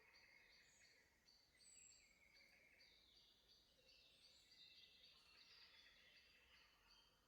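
Faint forest birdsong from several birds: a high chirp repeated a few times a second throughout, with short high whistles sliding downward and a busier stretch of song around the middle.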